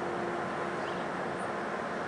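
Sounder commuter train standing at the platform, its diesel locomotive idling with a steady hum.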